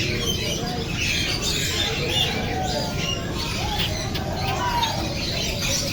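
Several parrots chattering, a stream of short squawks and chirps, some with quick rising or falling pitch.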